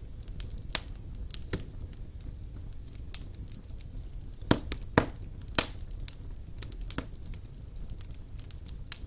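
Wood fire burning in a fireplace: a low steady rumble of flame with irregular sharp crackles and pops from the burning logs, three louder pops close together in the middle.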